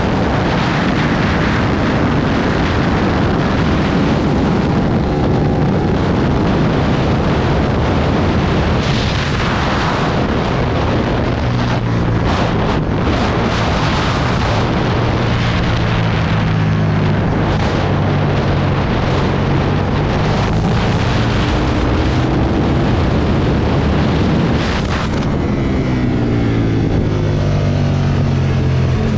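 Aprilia Tuono motorcycle engine at speed on a race track, buried under heavy wind rush on the microphone. The revs climb and drop with the throttle through corners, and near the end they climb steadily as the bike accelerates hard.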